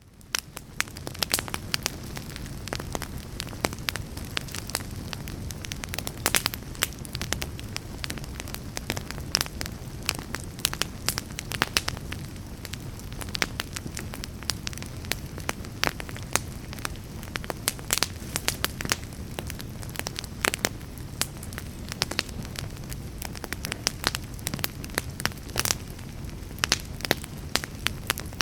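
Fire crackling: a steady low rumble under frequent, irregular sharp crackles and pops. It fades in over the first second.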